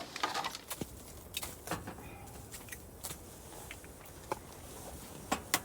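Scattered light clicks and knocks of small objects being handled, with two sharper clicks close together near the end, over a low steady rumble.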